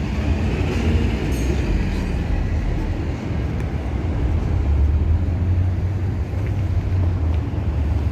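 Steady low rumble of street traffic, a continuous noise without distinct events.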